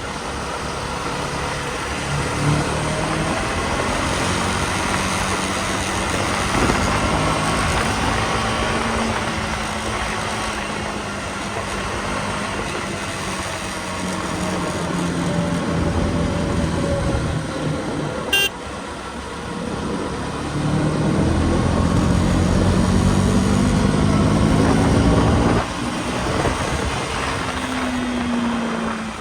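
KTM Duke 250's single-cylinder engine under way, its pitch climbing and dropping as it accelerates and changes gear, over wind and road noise. The strongest climb comes about two-thirds through and drops off sharply, and there is one sharp click about eighteen seconds in.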